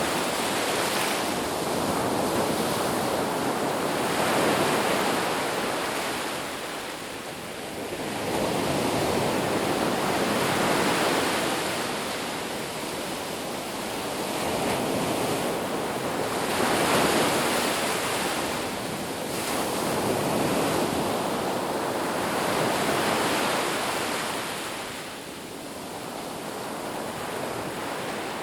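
Ocean surf: waves breaking and washing up the beach in a continuous hiss that swells and falls back every five or six seconds.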